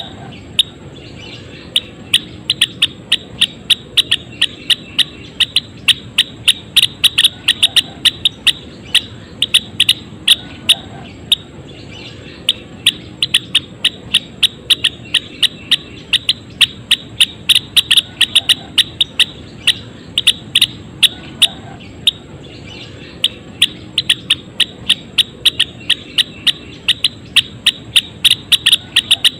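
Gelatik wingko Jawa singing in full voice: a fast run of sharp, high chirps, several a second, that keeps going with only brief breaks, over a steady low hiss.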